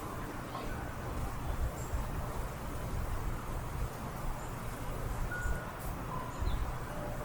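Wind chimes sounding a few single notes of different pitch, about five seconds in and again near the end, over a steady low rumble. A few faint high bird chirps come through at times.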